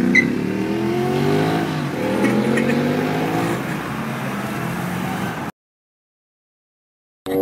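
Sport bike engine accelerating hard through the gears: the pitch climbs, drops back at an upshift, climbs again and then holds, slowly fading as the bike pulls away. The sound cuts off abruptly about five and a half seconds in, leaving dead silence.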